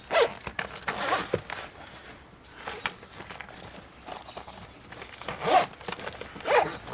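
Irregular scraping, rustling and light metallic clinking of objects being handled, in short uneven bursts.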